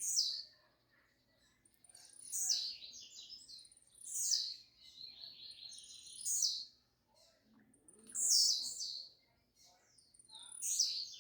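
Blue-black grassquit (tiziu) singing its short song over and over, about every two seconds, six times. Each phrase is a brief high note that drops into a quick falling sweep.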